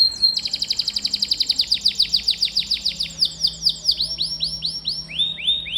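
Domestic canary singing: a fast rolling trill of rapidly repeated high notes that slows about three seconds in into a run of separate falling notes, with lower falling notes near the end.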